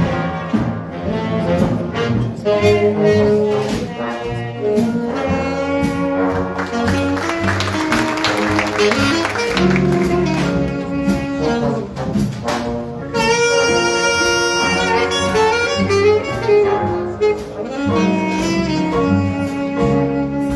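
High school jazz big band playing, with saxophones and brass carrying the melody over bass and drums. The cymbals swell midway, and the brass comes in on bright held chords in the second half.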